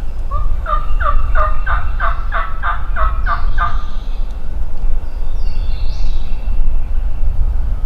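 A wild turkey gobbler gobbling once: a rapid rattling string of about ten notes lasting about three and a half seconds, over a steady low rumble.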